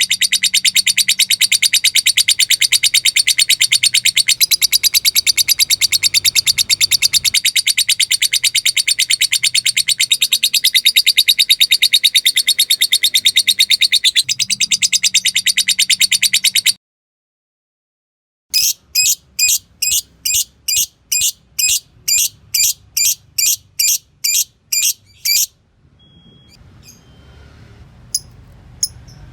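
Lovebird giving a long, very fast high-pitched chattering trill (the 'ngekek'), which cuts off abruptly about 17 seconds in. After a short gap it gives a run of separate sharp chirps about two a second, then a few sporadic chirps near the end.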